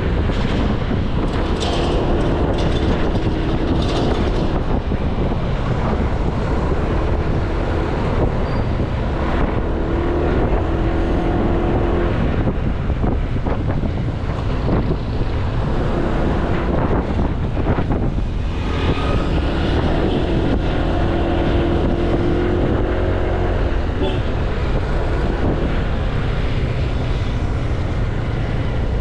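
Honda Click 160 scooter being ridden through city traffic: heavy wind rumble on the helmet- or bike-mounted microphone over the scooter's engine hum, which swells and fades several times.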